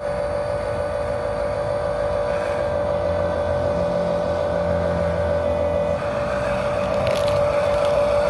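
The small electric motor of a miniature RC truck, whining at a steady pitch. A brief high scratching sound comes about seven seconds in.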